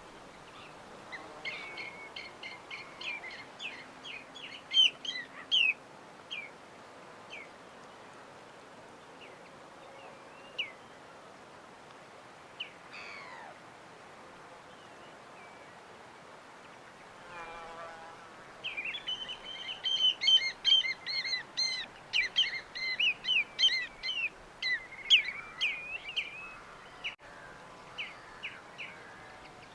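Small birds chirping in quick high-pitched runs, in two busy bouts with scattered single chirps between. A brief lower-pitched call comes just before the second bout. A faint steady hiss of background noise runs beneath.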